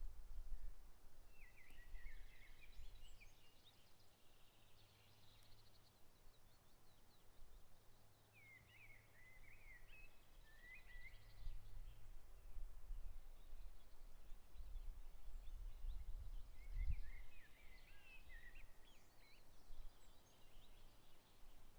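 A songbird singing three short phrases of quick, high notes several seconds apart, over a low, uneven rumble.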